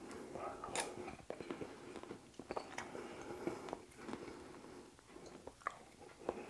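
A person chewing a mouthful of stir-fried Szechuan beef with the mouth closed: faint, irregular wet clicks and smacks of chewing.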